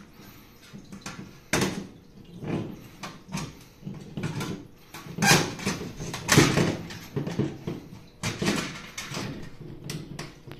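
Thin stainless-steel parts of a folding fire pit knocking, clinking and scraping against each other as the upper rack is fitted onto the base: irregular metal knocks with short slides between them, the loudest about five and six seconds in.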